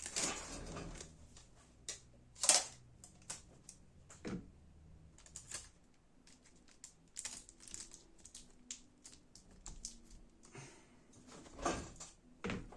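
Scattered light clicks and taps with a brief rustle at the start: hands flattening a laptop ribbon cable and pressing Kapton tape down onto it.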